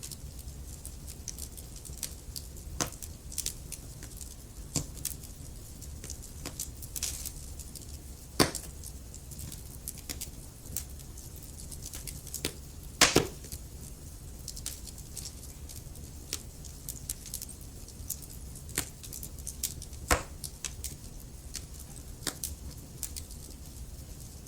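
Logs burning in a fireplace: a steady low rumble with a constant scatter of sharp crackles, and a few louder pops, the loudest about 8 and 13 seconds in.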